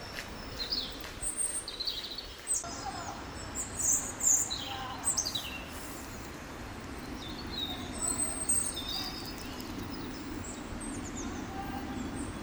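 Several small songbirds chirping and trilling, with short high calls coming one after another, over a steady low background noise.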